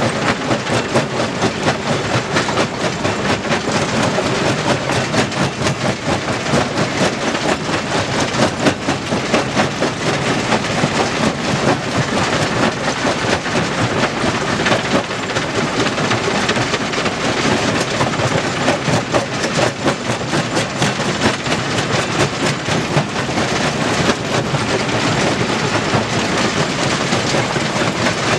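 Stone crusher running, with a steady, dense rattle and clatter of rock being broken and moved through the machine.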